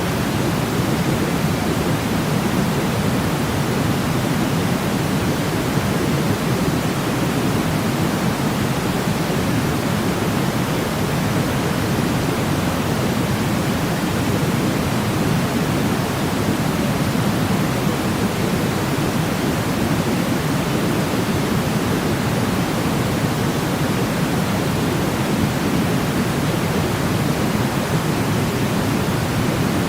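Steady white-noise sleep sound: an even, unbroken rushing hiss, weighted toward the deep end rather than bright, with no changes or breaks.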